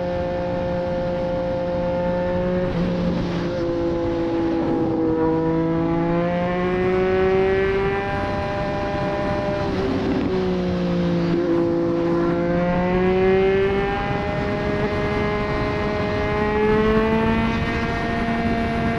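Triumph Street Triple 765 RS inline-three engine through a Racefit Growler full exhaust, under way at speed. Its pitch drops sharply at a couple of gear changes and climbs again as the bike pulls through the gears.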